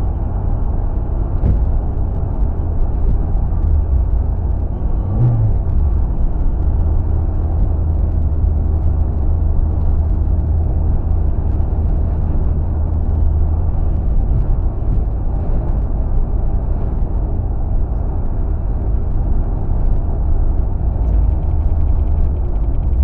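A car driving: a steady low rumble of road and wind noise.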